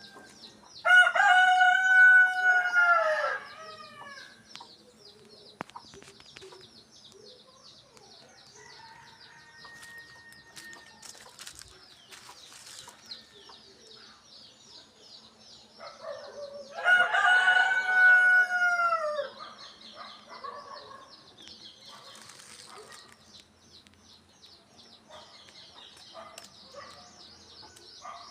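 A rooster crowing twice, each crow a long call of about two and a half seconds, the first about a second in and the second about seventeen seconds in. A steady, high-pitched pulsing chirr and a few faint chirps carry on underneath.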